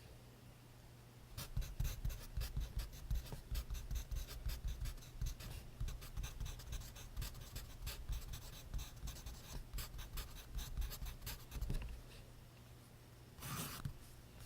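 Pencil writing on notebook paper: a dense run of quick scratching strokes that starts about a second and a half in and eases off near the end, followed by a brief louder rustle.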